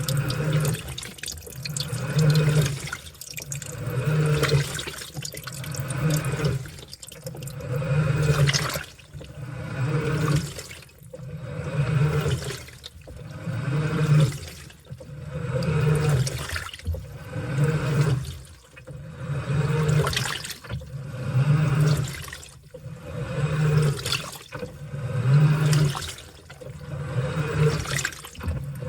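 Washing machine on its wash cycle: water sloshing and churning in the tub, surging about once every two seconds as the load is turned, with a low hum rising and falling in step.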